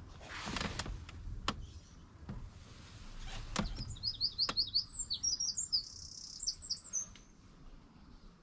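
A bird singing a rapid run of short, high chirping notes for about three seconds, starting about four seconds in. A few sharp clicks and a brief rustle come before it.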